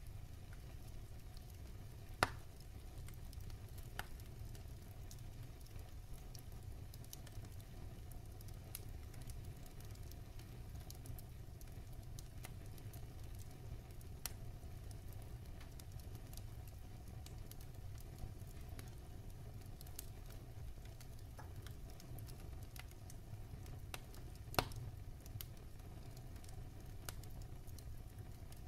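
Wood fire burning in a fireplace: scattered crackles and pops of the burning wood over a low steady rumble, with two louder pops, one about two seconds in and one near the end.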